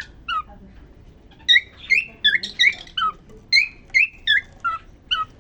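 Male cockatiel singing its courtship song: short whistled notes that glide up and down in pitch, a couple a second, resuming after a pause of about a second near the start.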